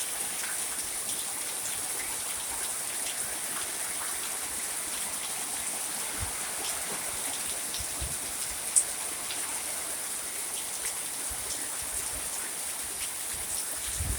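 Steady rain during a storm, a constant hiss with many scattered drop ticks and one sharper tick about nine seconds in.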